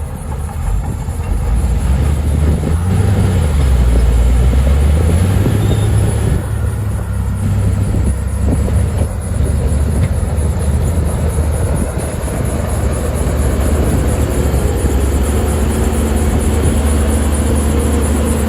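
Heavy diesel earthmoving machinery running under load, its engine note shifting a few seconds in and then holding steady.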